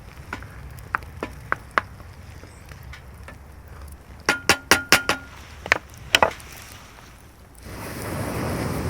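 A string of sharp clinks and knocks, densest about halfway through, where one briefly rings. Near the end, a steady rushing noise comes in.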